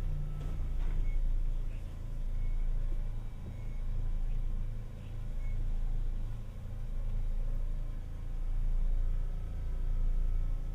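Tokyu Setagaya Line 300 series tram heard from inside the car: a low rumble that swells and fades every couple of seconds.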